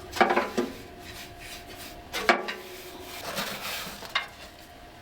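Hard objects being handled: a quick cluster of clinks and knocks at the start, single knocks about two and four seconds in, and some rustling between, over a faint steady hum.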